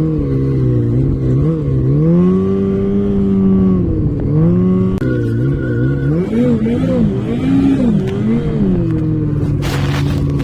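Off-road vehicle engine revving up and down as it is ridden over rough ground, its pitch rising, holding and dropping several times. A brief burst of noise comes near the end.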